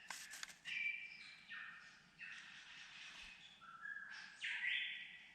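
Bird calls: a run of harsh, buzzy notes, several sweeping downward, with a louder call rising in steps near the end.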